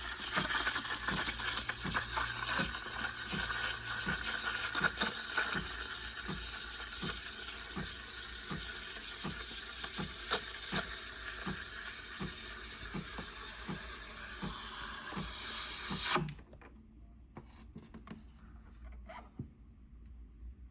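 Espresso machine steam wand hissing steadily, with a faint regular ticking about twice a second and a few clicks, then shut off sharply about 16 seconds in.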